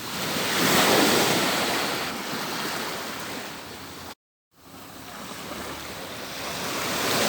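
Atlantic Ocean waves breaking and washing on a beach: one wave crests about a second in and recedes, then a second one builds toward the end. The sound cuts out completely for a moment about four seconds in.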